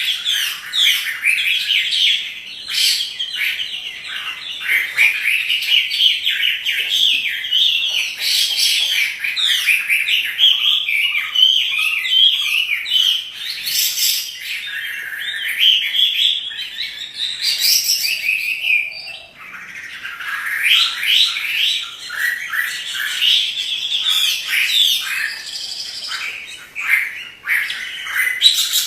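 Chinese hwamei (melodious laughingthrush) singing in full voice: a fast, near-continuous run of varied whistled and chattering notes, with a short pause about two-thirds of the way through.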